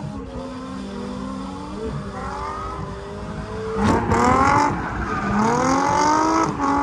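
Car engines revving hard while drifting, the pitch climbing in three surges, about two seconds in, loudest about four seconds in, and again for over a second near the end, with a hiss of tyres sliding on the tarmac during the loud parts.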